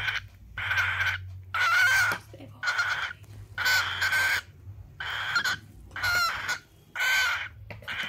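A bird giving harsh, rasping calls over and over, about one call a second, each lasting about half a second.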